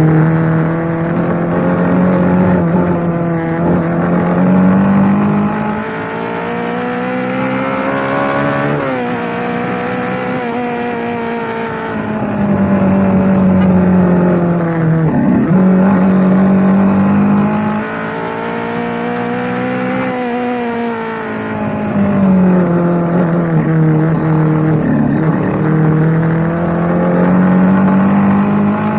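Yamaha FZ25's single-cylinder air-cooled four-stroke engine running through its stock exhaust, its note slowly rising and falling several times. There are two brief sharp drops in pitch, about halfway through and near the end.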